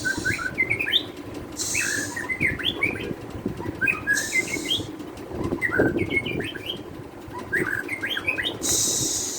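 White-rumped shama song: short phrases of quick chirping notes repeated about every two seconds. Between some phrases there is a harsh hissing burst, about four times.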